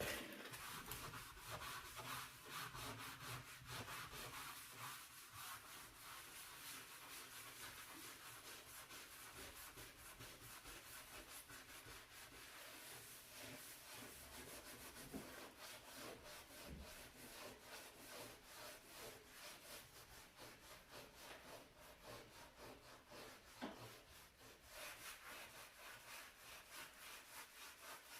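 Scrubbing brush worked over a dirty stove in quick, steady back-and-forth strokes, starting abruptly.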